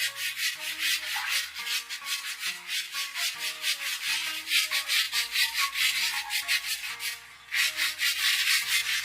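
Fast rhythmic rubbing strokes, about five a second, with a brief pause near the end, over soft background music.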